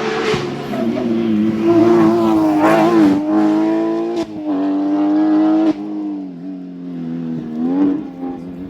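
Rally car engine pulling hard under full throttle, its note climbing then dropping sharply at gear changes about four and six seconds in, with a further quick rise and fall near the end.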